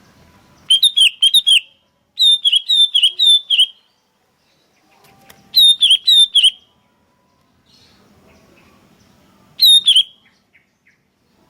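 Sooty-headed bulbul (kutilang) calling in four bursts of quick, falling chirping notes, each burst up to about a second and a half long.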